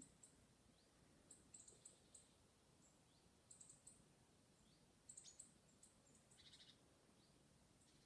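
Faint, high-pitched bird chirps in short clusters, about a second and a half, three and a half and five seconds in, with a brief buzzy trill a little later, over quiet background hiss.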